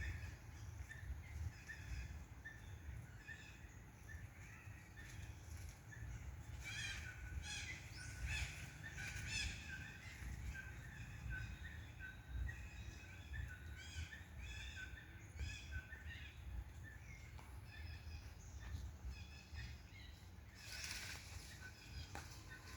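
Birds chirping and calling in short repeated notes, busiest through the middle, over a low steady outdoor rumble.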